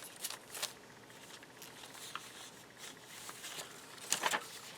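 Paper rustling as journal pages and inserts are handled and turned: a few soft rustles near the start and a louder one about four seconds in.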